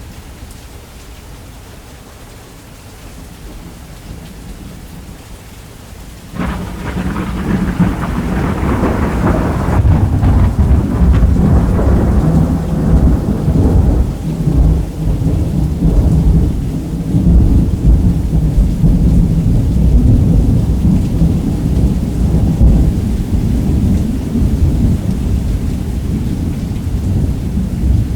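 Steady rain, then about six seconds in a sharp crack of thunder that rolls into a long, heavy rumble, carrying on over the rain.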